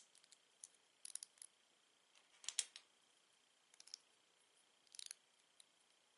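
Plastic LEGO bricks being handled and pressed together, giving short sharp clicks and snaps in small clusters about once a second. The loudest cluster comes about two and a half seconds in.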